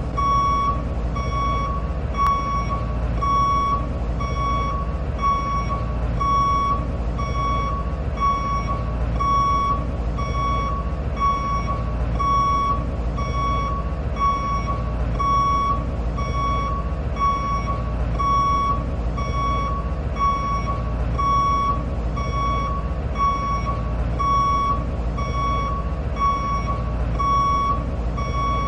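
Truck reversing alarm: a steady high beep repeating a little over once a second over the low rumble of a running engine.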